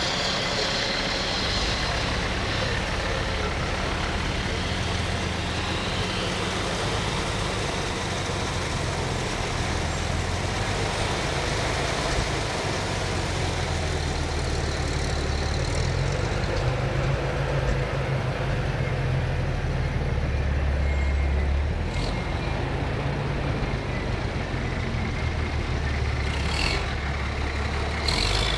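Heavy fire trucks' engines running as the apparatus rolls slowly past, a steady low rumble with a broad wash of road and crowd noise. A short sharp noise comes about two-thirds of the way in, and two more near the end.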